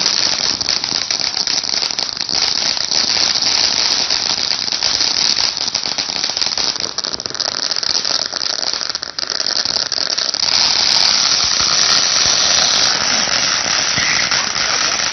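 A ground firework spraying, with dense rapid crackling over a hiss; about ten seconds in the crackle thins into a steadier, brighter hiss.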